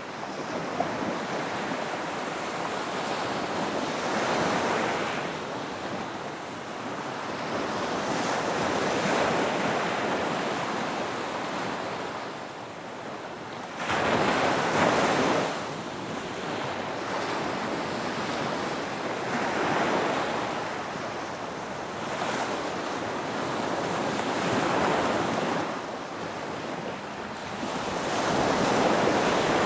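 Ocean waves breaking on a beach, the surf swelling and easing every few seconds; the sharpest, loudest break comes about 14 seconds in and another builds near the end.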